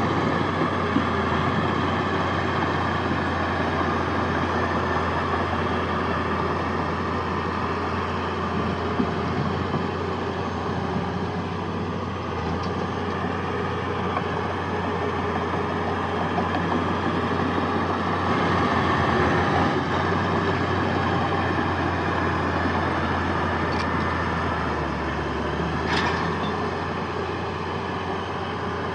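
Heavy diesel engine of earthmoving machinery running steadily, with a short metallic clank near the end.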